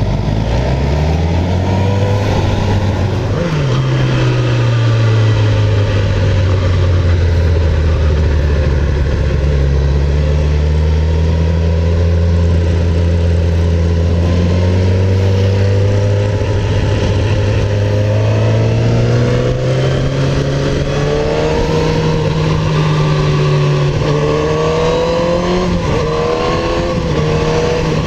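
Sport motorcycle engine under way: its pitch drops about three seconds in, holds steady, then climbs slowly from about sixteen seconds, with a few quick pitch changes near the end, over steady wind noise.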